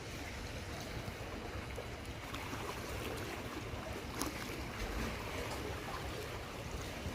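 Steady sea-water wash and wind noise on a fishing boat, over a low, even rumble, with a few faint clicks.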